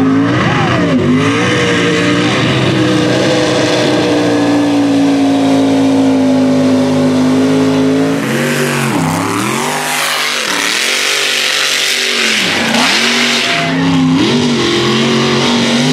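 Mega truck engine revving hard, held at high revs for several seconds, then rising and falling in repeated surges as the throttle is worked, before climbing again near the end.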